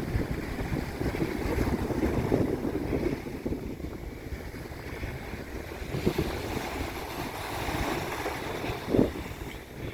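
Wind buffeting the microphone over the wash of water, with a few louder surges or thumps about two, six and nine seconds in.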